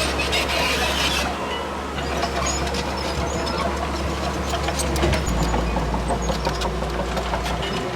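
Diesel engine of heavy earthmoving machinery running steadily, with scattered light metallic clanks and ticks. Its low note shifts about five seconds in.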